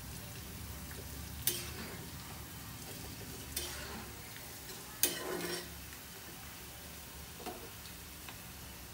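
Pulihora tempering of peanuts, lentils, chillies and mustard seeds frying in oil in a kadai, stirred with a metal ladle: a low steady sizzle under a steady low hum, with a few sharp clicks of the ladle against the pan, the loudest about five seconds in.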